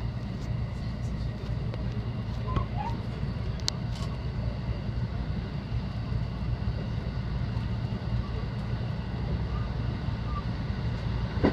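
Electric commuter train running along the line, heard inside the driver's cab: a steady low rumble with faint steady tones above it and scattered light clicks, one sharper click a little under four seconds in.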